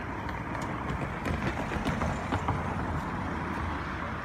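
DART electric commuter train approaching along the tracks: a steady rumble with scattered sharp clicks.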